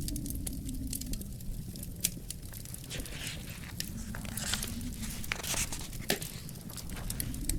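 Wood fire crackling in a fireplace, with frequent sharp pops and a few brief hissing spells in the middle, over a low steady rumble.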